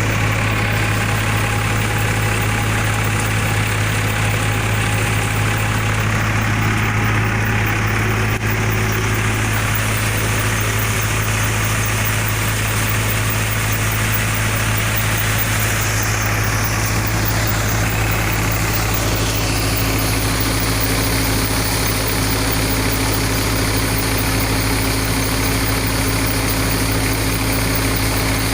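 Sonalika tractor's diesel engine running steadily at a constant speed, a deep even hum. A second, higher steady tone joins it about two-thirds of the way through.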